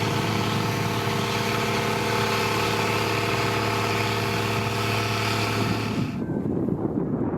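Heavy construction machine's diesel engine running at a steady speed. About six seconds in, it cuts off suddenly and gives way to a low, gusty rumble of wind on the microphone.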